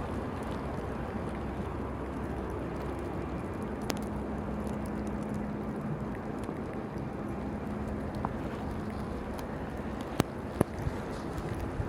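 Steady city street noise in a snowstorm: a low rumble of traffic and wind, with a low hum from about a third of the way in, and two sharp knocks close together near the end.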